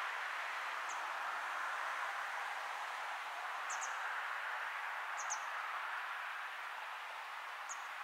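A bird giving a few short, thin, high chirps, some in pairs, over a steady background hiss.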